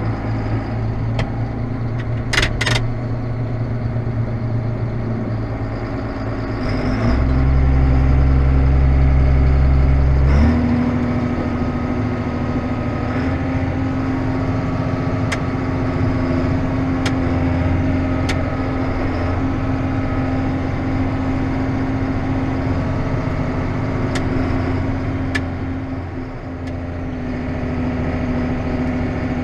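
A vehicle engine running steadily. About seven seconds in its low note shifts and grows louder for a few seconds, then it settles back into a steady hum with a constant higher whine, with a few faint clicks along the way.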